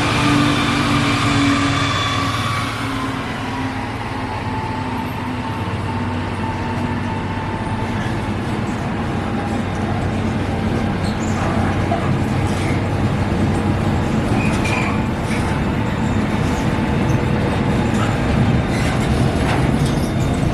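A train running along the tracks past the platform: a steady rumble with a humming tone that fades over the first few seconds, then scattered clicks as the noise builds again toward the end.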